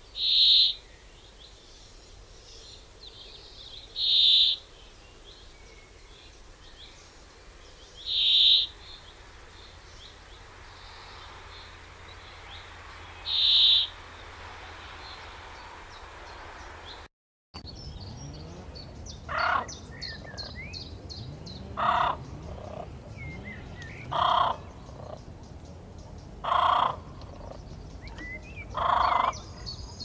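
Bird calls from two spliced recordings. First a single loud, high call repeats about every four seconds, four times. After a short break about halfway, a lower call repeats about every two and a half seconds, five times, over fainter chirping.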